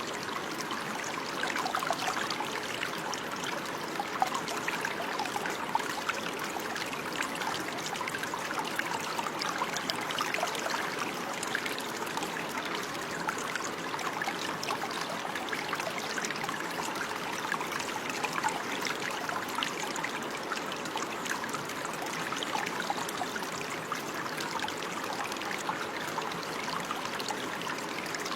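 Running water flowing steadily, a continuous babbling rush with many small splashes and trickles.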